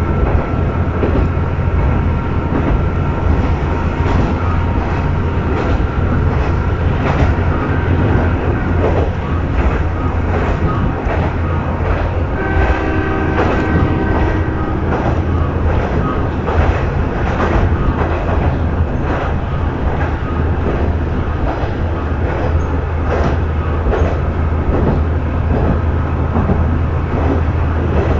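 Diesel railcar of the Kanto Railway Ryugasaki Line running, heard from inside the car: a steady low engine and running hum, with the wheels clicking over rail joints. About halfway through, a steady tone sounds for about two seconds.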